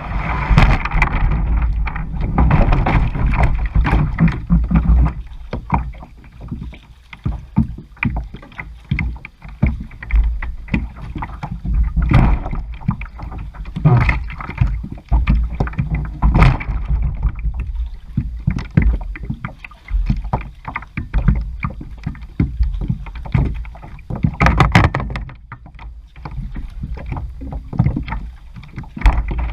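Kayak paddle strokes splashing and dripping in water, irregular sharp splashes every couple of seconds over a steady low rumble.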